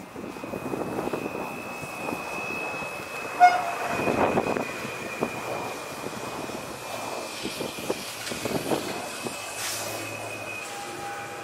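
Stadler Flirt multiple-unit train running through the station, wheel and rail noise with a steady high whine, and a short horn toot about a third of the way in.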